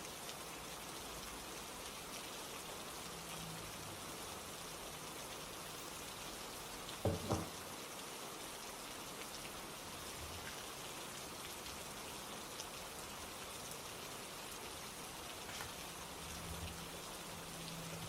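Steady rain falling, an even hiss of many drops. About seven seconds in there is a short double thump.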